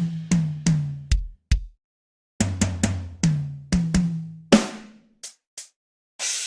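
A drum track playing a pattern of kick and snare-type hits with a low pitched ring. It stops for about half a second, then runs on, and a cymbal crash comes in near the end.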